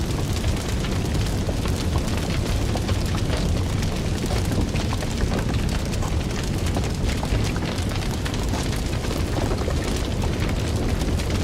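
A fire burning with a steady low rumble and frequent small, irregular crackles and pops.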